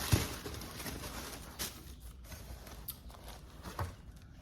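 Shoes and their packaging being handled: a thump just after the start, then rustling and a few light knocks.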